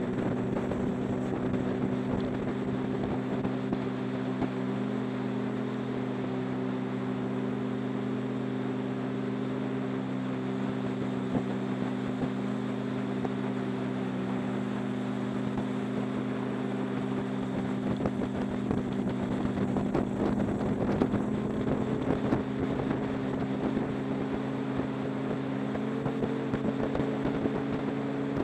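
Motorcycle engine held at a steady cruising speed, a constant drone with wind rushing over the microphone; the engine note rises slightly near the end.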